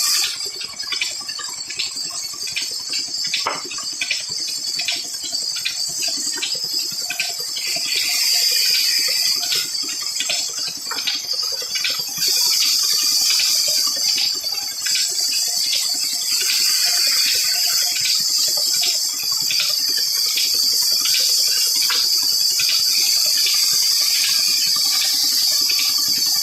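Old slow-running 25 hp diesel stationary engine running steadily, its beats coming at about two a second over a steady hiss.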